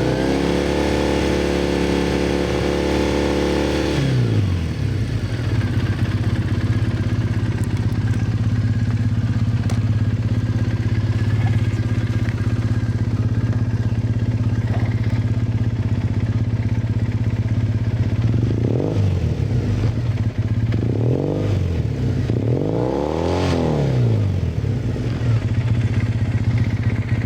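Triumph Bonneville EFI parallel-twin engine running through aftermarket Toga classic-style exhausts: held at raised revs, dropping to a steady idle about four seconds in, then three short throttle blips near the end, the last one revving highest.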